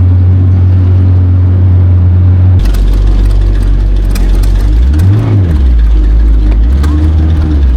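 An engine running under way, its pitch dropping about two and a half seconds in, then briefly rising and falling again about five seconds in.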